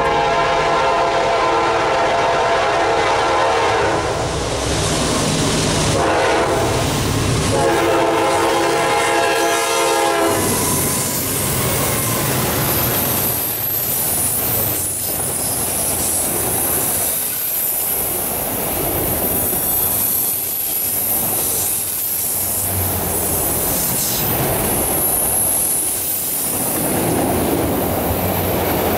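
GE Dash 9-40CW locomotive's air horn sounding three blasts for the grade crossing, a long one, a short one and a long one, ending about ten seconds in. Then a freight train of autorack cars rolls past, wheels clacking over the rails with a high-pitched wheel squeal.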